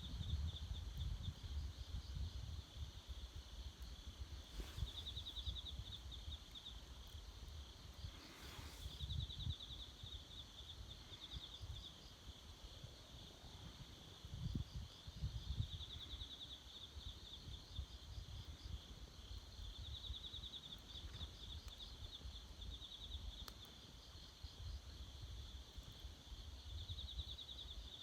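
An insect trilling in short, finely pulsed bursts, a new burst every four to five seconds. Beneath it runs a low rumble with a few faint clicks.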